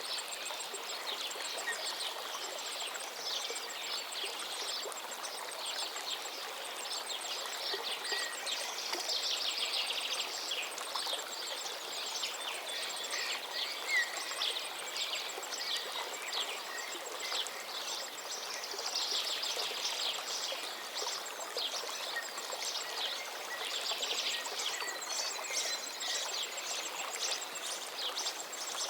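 River water flowing steadily while many birds sing and call over it in quick, overlapping phrases.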